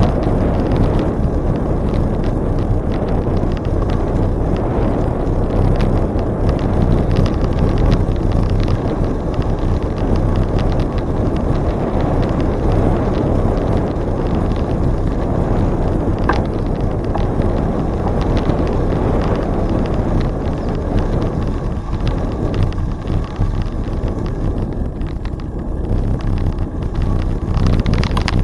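Bicycle being ridden, with a steady rush of wind on the microphone over tyre and road noise.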